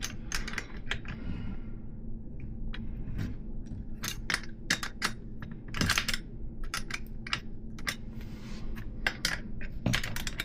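Irregular metallic clicks and ticks of a cone wrench and cone nuts being worked along a threaded 3/8-inch solid BMX hub axle, turned a little at a time.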